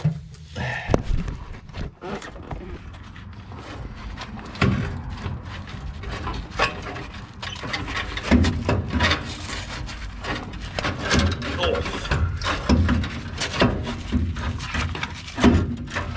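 Irregular clunks, knocks and scrapes of a heavy automotive starter motor, just broken free from its spacer plate, being worked loose and pulled out from under the truck's engine.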